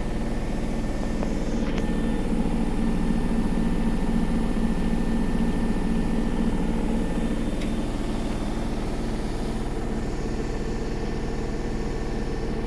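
Samsung WW80R421HFX front-loading washing machine running with a steady motor hum that swells slightly in the middle, with a faint tick twice.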